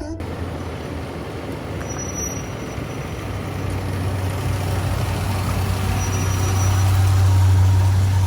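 Motor vehicle driving, a steady low engine hum under road and wind noise that slowly grows louder.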